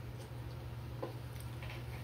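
A person chewing a mouthful of soft scrambled eggs: a few faint wet mouth clicks, over a steady low hum.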